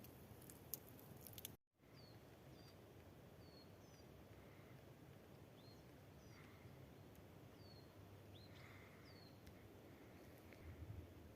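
Faint, quiet woodland ambience with a small bird giving short, downward-sliding high chirps every second or so. A few sharp clicks come in the first second and a half, before a brief dropout.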